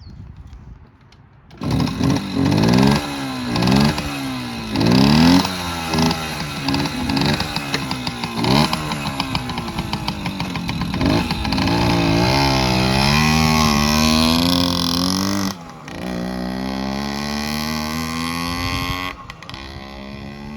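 1968 Suzuki Sportsman M15-2 50cc two-stroke engine starting about two seconds in and revved in a series of short blips. It is then held at higher revs with the note climbing steadily, dropping off sharply twice and falling to a lower note near the end.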